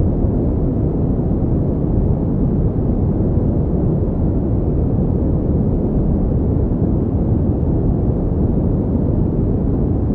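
Continuous pink noise for sleep: an even, unchanging rushing noise, weighted toward the low end and fading off in the highs.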